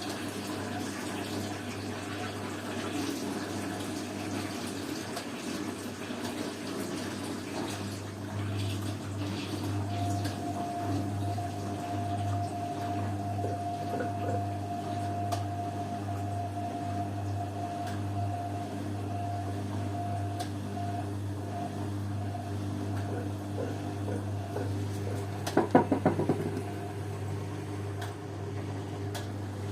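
Washing machine filling with water, a steady rush of water over a low mains hum. A thin steady whine runs through the middle, and a short burst of clicks comes near the end.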